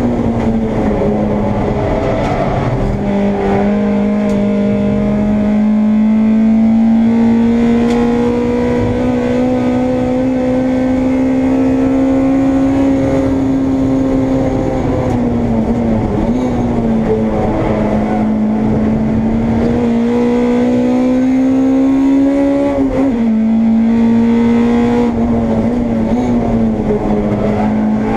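Honda Integra race car's engine heard onboard under hard acceleration, the revs climbing steadily through each gear. The pitch drops sharply at upshifts about a second in, near three seconds and again near 23 seconds; it falls away more gradually around the middle, as for lifting and braking, and then climbs again.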